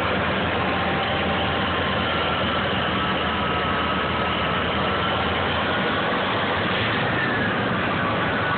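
Diesel engine of a CMI PR-800-7 cold planer running steadily at idle after a cold start.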